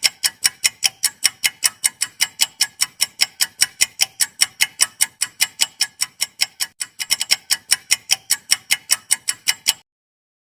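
Clock-ticking countdown-timer sound effect of a quiz: a steady run of sharp ticks, about five a second, that stops abruptly near the end, marking the time allowed to answer.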